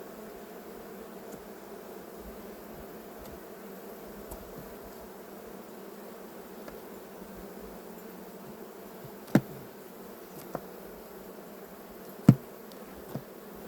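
Honey bees buzzing steadily around an open hive, a constant humming drone. Two sharp knocks stand out, about nine and twelve seconds in, with a couple of fainter ones after.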